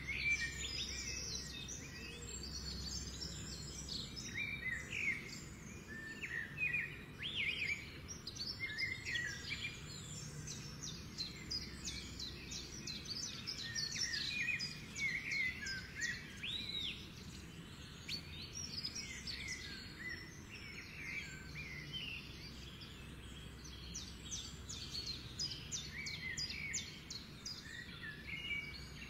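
Birds chirping and singing: many short chirps and whistled calls, one after another, over a faint low hum.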